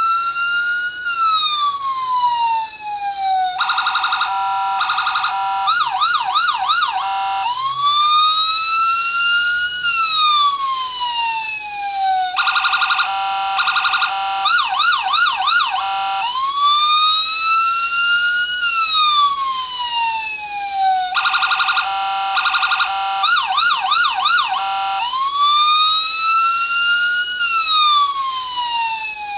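Electronic police-car siren from a circuit board, cycling through its tones: a wail that rises quickly and falls slowly, then a rapid pulsing tone, then a fast yelp. The cycle repeats about every nine seconds.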